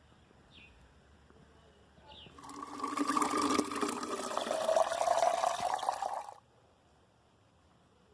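Water running for about four seconds, then cutting off suddenly.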